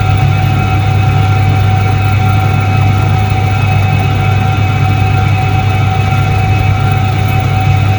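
Soviet 1978 Iset-3 washing machine running: a steady, unbroken low hum with a fainter constant higher tone over it.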